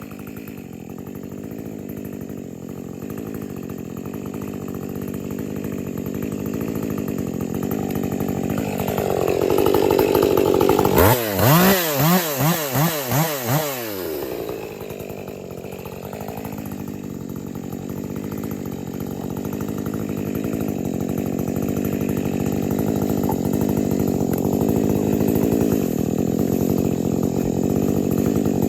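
A 50cc-class two-stroke chainsaw running at high revs while cutting maple, slowly growing louder. About halfway through it revs sharply up and down five or six times, then settles back into a steady run.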